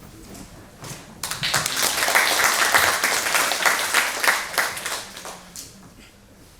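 Audience applauding: the clapping starts about a second in, holds, and dies away over the last second or two.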